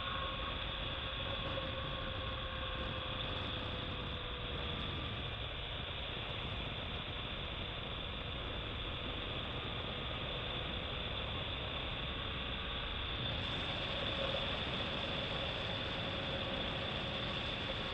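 BMW R1200GS Adventure's boxer-twin engine running steadily under way, mixed with steady wind rush over the microphone.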